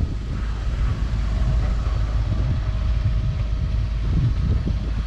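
Sailboat's engine running steadily under way, a low rumble with faint steady tones, mixed with wind buffeting the microphone.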